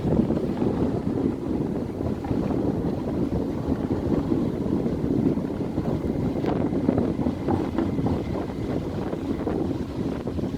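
Train rumbling steadily across a railway bridge overhead, with rapid small clicks running through the noise, mixed with wind buffeting the microphone.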